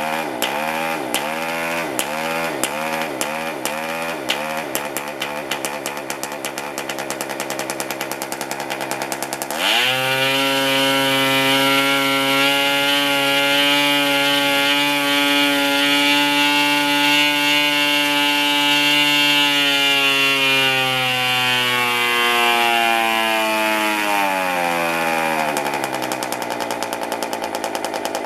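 PAW 40 TBR R/C model diesel engine spinning a propeller: it runs at low speed with its pitch swinging up and down about twice a second, is throttled up suddenly about ten seconds in to a steady high-speed run, and is eased back down to a lower speed near the end.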